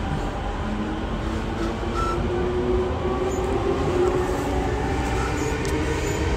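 Running sound inside a JR Musashino Line E231-series electric train travelling between stations: a steady rumble of wheels and running gear on the rails, with a faint whine on top.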